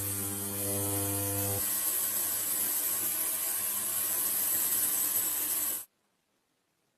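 Hand-squeeze dynamo pocket light's gear train and generator whirring as the lever is pumped, with a steady hum in the first second and a half; the whirring cuts off suddenly about six seconds in.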